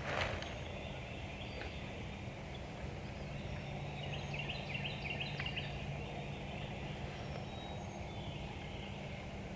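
Outdoor ambience with birds calling: a run of quick high chirps about four to five seconds in over a steady low hum, after a brief rustle at the very start.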